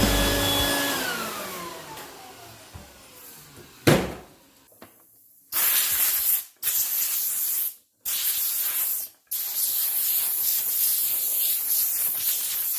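Rock music sliding down in pitch as it fades out, a single knock about four seconds in, then a loud, even hiss in four stretches broken by short, abrupt silences.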